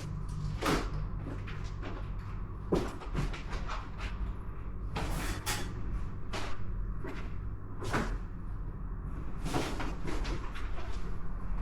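A dozen or so irregular clicks and knocks of objects being handled, over a steady low hum.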